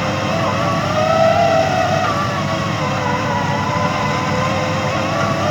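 SANY SR150C rotary drilling rig running steadily while boring a pile, its engine and hydraulic rotary drive giving a continuous whine that wavers in pitch over a low rumble.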